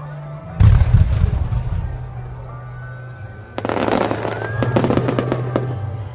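Aerial fireworks bursting: a deep boom about half a second in, then from about three and a half seconds a dense crackle of many small pops for about two seconds. Background music with a steady bass tone plays underneath.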